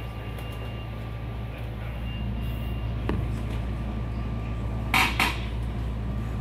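SEPTA Regional Rail electric train heard from inside the passenger car: a steady low hum as it runs, with a light click about three seconds in and two sharp metallic clacks in quick succession about five seconds in, the loudest sounds here.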